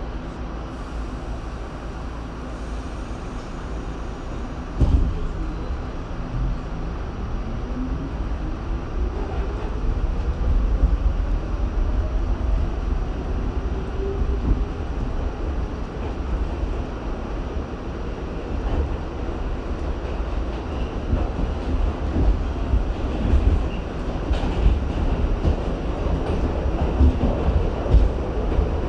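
R68 subway car pulling away: a knock about five seconds in, then the Westinghouse DC traction motors' whine rising in pitch as the train gathers speed, over a steady rumble of wheels on the rails. Near the end the whine starts to rise again.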